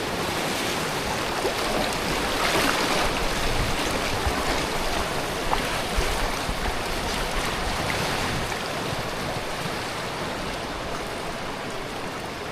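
River water rushing, a steady wash of noise as the tubes ride the current, easing off slightly near the end.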